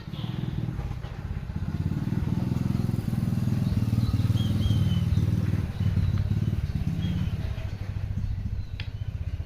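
A small engine running with a low, fast-pulsing rumble, like a motorcycle, growing louder toward the middle and easing off later.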